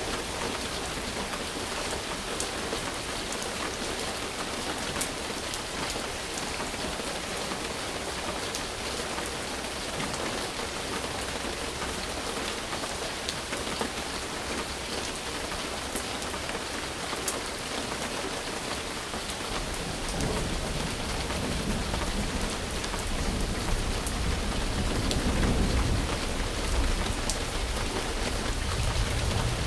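Steady rainfall with the patter of individual drops, and about two-thirds of the way through a low thunder rumble rolls in and swells before easing.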